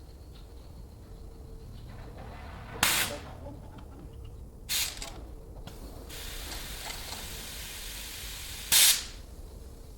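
Three short, loud blasts of hissing spray, with a longer, softer hiss running from about six seconds in until the third blast.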